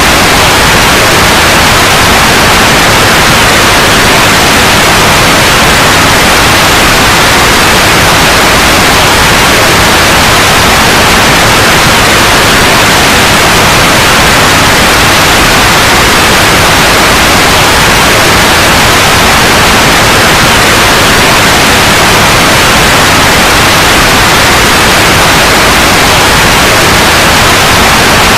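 Loud, steady white noise (hiss) with no change.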